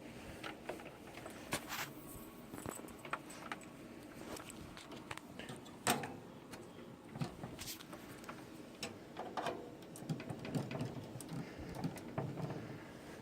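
Scattered light clicks and knocks of desktop computer parts and case being handled during assembly, the sharpest about six seconds in.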